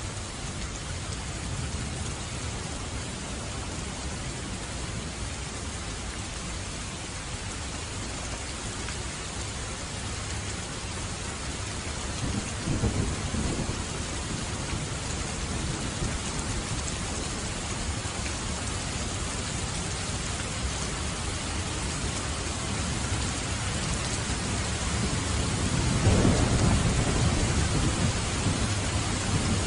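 Steady heavy rain falling, with two low rolls of thunder: one about halfway through and a louder one near the end.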